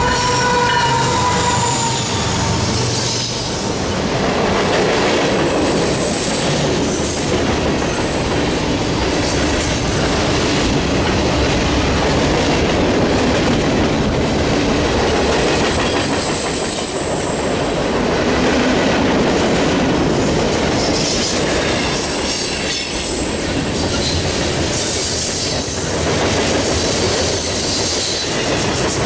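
CSX freight train passing close by: the horn chord of the lead ES44AH locomotive cuts off about a second in as it goes past, then a string of boxcars and coil cars rolls by with rumbling, clicking wheels over the rail joints and a few brief high-pitched wheel squeals.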